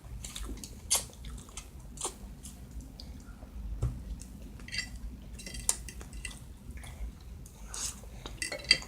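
Close-miked chewing and wet mouth smacks of a person eating, in irregular short clicks.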